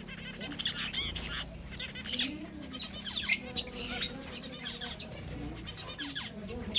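A flock of aviary finches calling, many short high chirps and trills overlapping, with brief flutters of wings.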